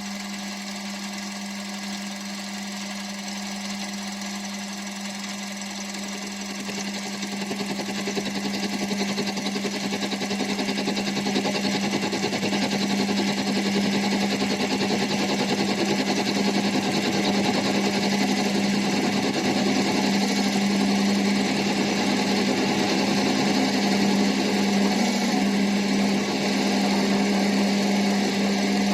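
Mini lathe running with a steady hum while a high-speed steel chip-breaker tool takes a deep cut of about 2 mm per side in the turning stock. The sound grows louder and rougher from about seven seconds in as the cut loads up, then holds steady.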